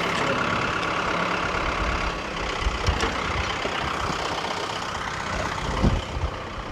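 A vehicle engine running steadily at idle, with low thumps in the second half.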